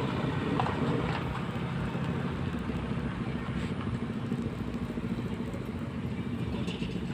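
Tanker truck engine running steadily on the road, a low even hum with road noise.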